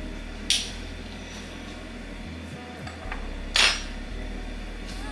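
Kitchenware being handled: two clanks, the second louder, about half a second and three and a half seconds in, with a faint tick just before the second.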